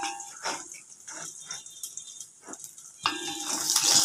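Thavala adai frying in oil in a heavy iron kadai: a steady sizzle with a few short scrapes of a wooden spatula working under it. About three seconds in, the sizzle jumps much louder as the adai is turned over into the hot oil.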